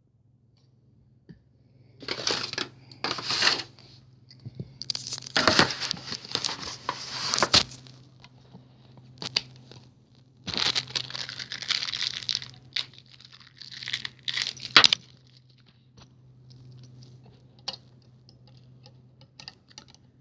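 Packaging being torn and crinkled by hand in four separate bursts, then softer scattered rustles and clicks. A steady low hum runs underneath.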